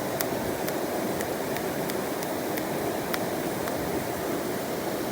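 Mountain stream water rushing steadily, with faint sharp ticks about twice a second.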